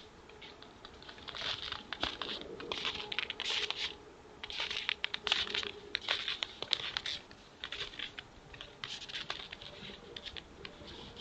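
Footsteps crunching in snow: repeated crackly crunches at an even walking pace, with pauses around four and eight seconds in.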